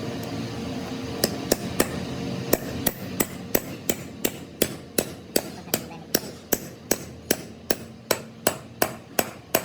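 Hammer striking metal in a steady rhythm, about two to three blows a second, each with a short metallic ring. A steady machine hum sounds under the first second before the hammering starts.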